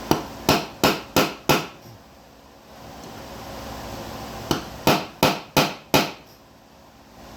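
Hammer blows driving a roll pin home in a Honda CT70 front fork: two runs of five sharp strikes, about three a second, with a pause of about three seconds between the runs.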